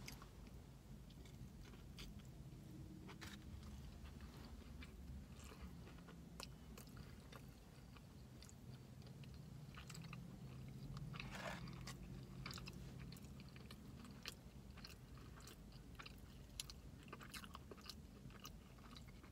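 A person chewing and biting a Chick-fil-A chicken sandwich, faint, with many short scattered mouth clicks.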